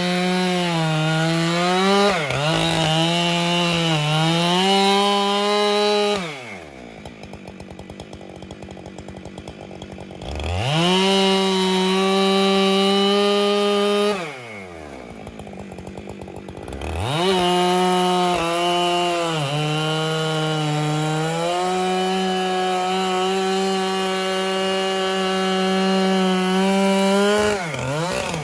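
Husqvarna 592XP two-stroke chainsaw on an Alaskan chainsaw mill, running at full throttle while it rips through a log, its pitch sagging now and then under the load. Twice the throttle is let off and it drops to idle for a few seconds before revving back up into the cut.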